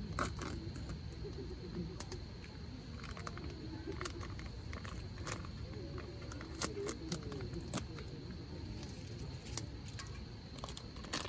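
Hardwood campfire crackling, with irregular sharp pops every second or so over a low steady rumble.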